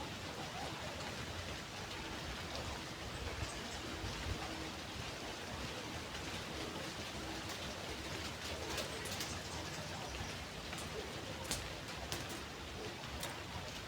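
Steady, even water-like hiss with scattered light ticks.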